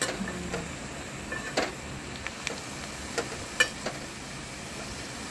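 Potato chunks frying in hot oil in a stainless steel pan, a steady sizzle, with a slotted metal spatula clinking against the pan a few times as they are stirred.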